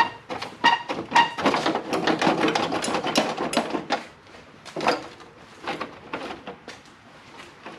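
Metal clanks with a brief ring, followed by a couple of seconds of continuous rattling and then scattered knocks, as tools and parts are handled.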